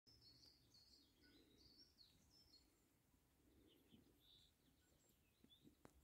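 Near silence with faint bird chirps: a quick run of short, high chirps in the first two seconds and a few more later, over a faint low rumble. A short click comes just before the end.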